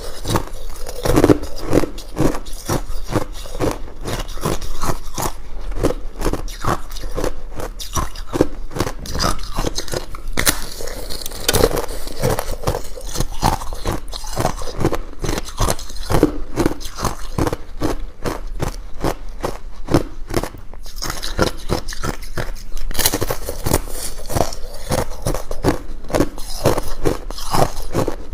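Ice being bitten and chewed: a dense, irregular run of crisp crunches and cracks, several a second, without a break.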